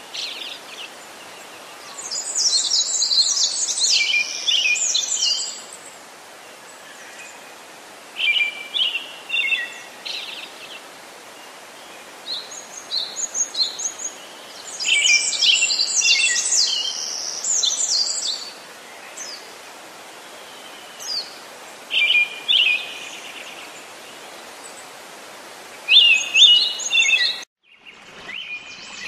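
Songbirds singing: bursts of chirping, twittering phrases every few seconds, the longest lasting three or four seconds, over a steady hiss. The sound cuts out abruptly near the end.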